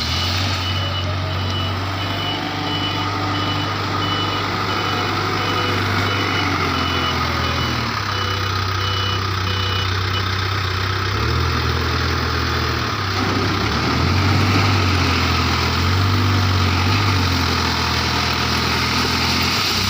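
Diesel engine of a backhoe loader at work, its note rising and falling as the load changes. A reversing alarm beeps over it at an even pace and stops about halfway through.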